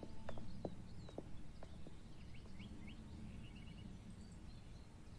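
Faint small birds chirping, with a quick run of chirps about three seconds in, over a low steady background hum. A few soft taps fall in the first two seconds.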